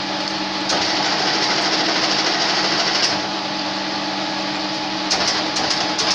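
Metal lathe running with a steady hum. From just under a second in to about three seconds a tool cuts into the spinning workpiece with a hiss, and near the end come a few short clicks.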